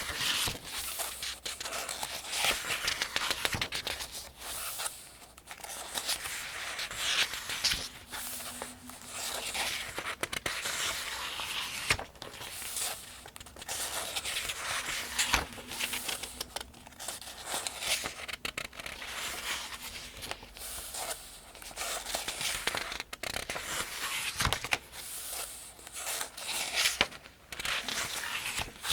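Pages of the 2025 Farmers' Almanac being turned by hand one after another, each turn a crisp rustle of paper, with a new swish every couple of seconds.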